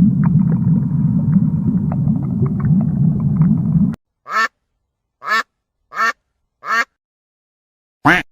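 A steady low rumbling noise that cuts off suddenly about four seconds in, then a duck quacking five times in short, separate quacks.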